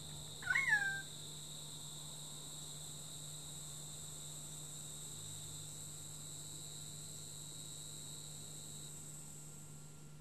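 Insects droning steadily in high, even tones, with one short swooping bird call about half a second in; the lower of the insect tones stops near the end.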